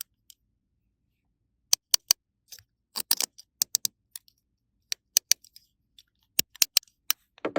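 Small plastic toy pieces being handled and set down: scattered light clicks and taps, some in quick clusters of two or three.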